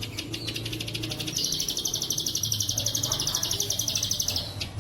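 Ciblek sawah (prinia) masteran song with the 'bren cililin' part, a fast, evenly pulsed, high buzzing trill like a cicada. One bout trails off at the start and a long bout of about three seconds follows from about a second in, over a low steady hum.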